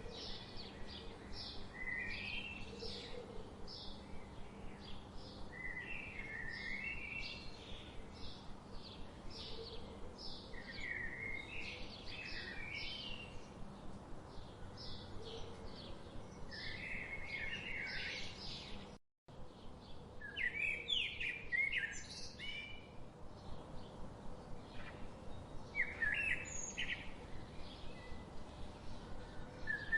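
Wild birds chirping and singing: a steady run of short high chirps, several a second, with warbled song phrases over it. The sound cuts out completely for a moment about two-thirds of the way through.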